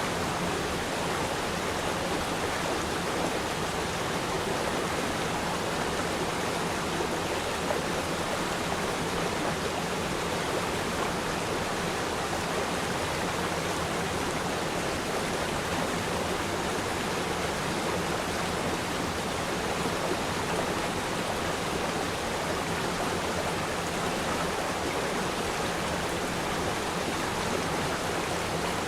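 River stream flowing, a steady rush and babble of water with no change.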